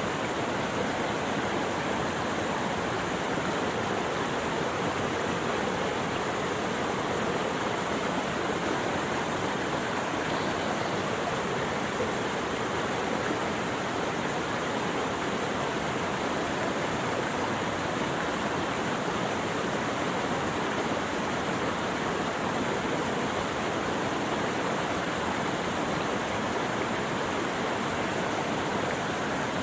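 Flowing water rushing steadily, an even unbroken noise with no changes or other events.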